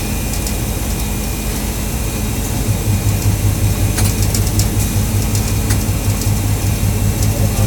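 Low hum of a stationary train idling, growing into a louder, pulsing throb about three seconds in, with a few faint clicks.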